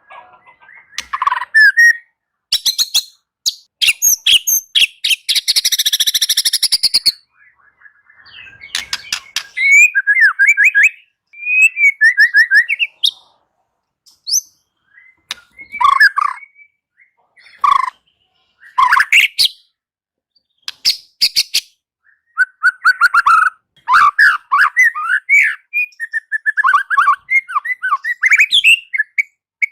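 White-rumped shama singing: a varied string of loud phrases, with quick whistled and chattering notes, dry rattling runs of clicks, and one harsh buzzy phrase about a fifth of the way in, broken by short pauses.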